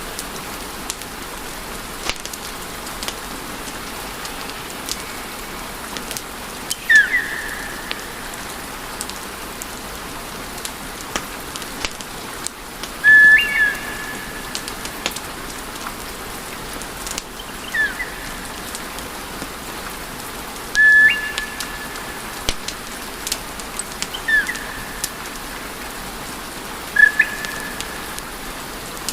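Wood fire burning in a fireplace: a steady hiss full of sharp crackles and pops, with a short high whistle about six times, each dipping in pitch and then holding briefly.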